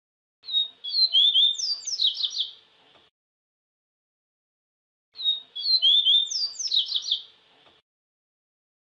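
Papa-capim (yellow-bellied seedeater) singing: a quick run of short, high, sweet notes and slurred whistles, given twice as the same phrase about four and a half seconds apart.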